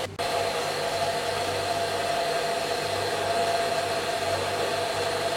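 Blitz pod coffee machine's milk system running after its milk button is pressed: a steady hissing whir with a low hum and a faint steady tone as it draws milk up the tube and froths it. It starts a moment in.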